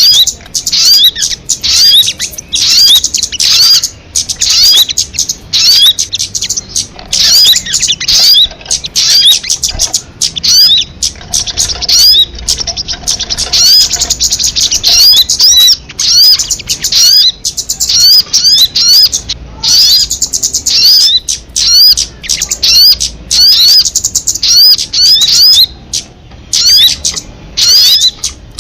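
Sogon bird calling: rapid strings of short, high, hooked chirps in dense bursts with brief pauses between them.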